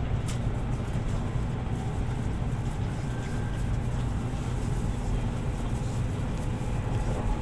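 Steady low rumble and noise of a Taiwan High Speed Rail train, holding even throughout, with a brief click just after the start.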